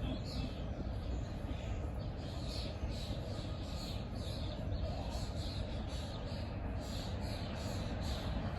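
A bird giving short chirps over and over, about two a second, over a steady low rumble.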